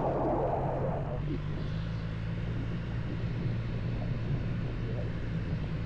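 Car engine running steadily with a low drone, and a brief rougher noise in the first second.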